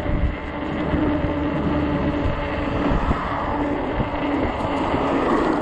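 Wind buffeting the microphone in uneven gusts while riding an electric fat-tire bike, with a steady hum running underneath.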